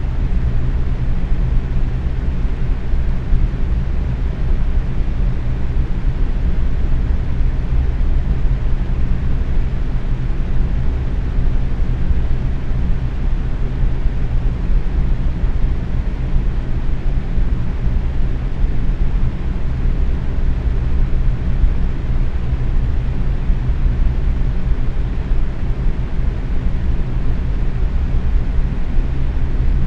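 Box fan running at medium speed: a steady, unchanging rush of air with a low hum, heaviest in the low end.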